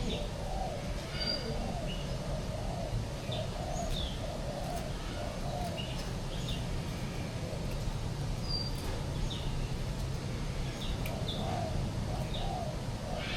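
Birds calling in a walk-through aviary: scattered short high chirps over repeated low wavering coos, with a steady low rumble underneath.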